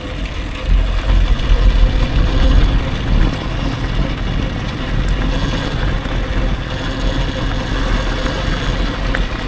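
Electric dirt bike riding along, with heavy wind rumble on the microphone that swells about a second in and a steady faint hum underneath.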